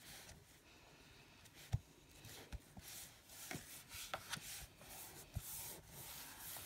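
Paper and card being handled on a craft desk: soft rustling and sliding, with several light taps and knocks, the sharpest a little under two seconds in.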